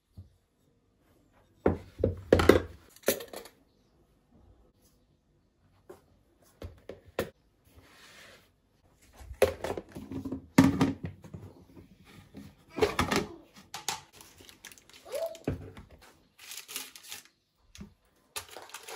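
Irregular knocks, thuds and short scraping sounds of objects being handled, coming in clusters with quiet gaps between.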